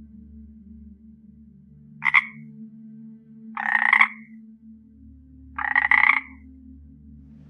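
A toad croaking three times, about two seconds apart: a short call, then two longer calls of over half a second each, over a faint low steady hum.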